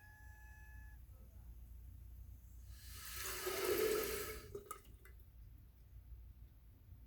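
A toilet gives a short surge of rushing, gurgling water about three seconds in, which swells and fades over under two seconds, followed by a few faint clicks. A faint whistling tone sounds for about a second at the start.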